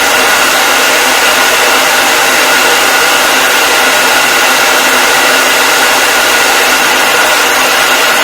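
Hair dryer running steadily, a loud even rushing of air with a constant whine above it.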